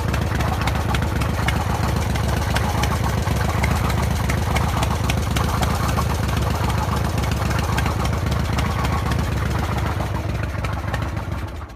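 Harley-Davidson Evolution V-twin engine running steadily, with a fast ticking noise over the engine note. The owner suspects it comes from the rockers, though it is also strong low down by the rear cylinder. The sound cuts off suddenly at the very end.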